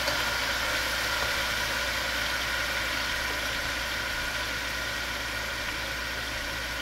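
Grated onion frying in hot oil in a metal pot, a steady sizzling hiss, with a brief spoon knock against the pot at the start.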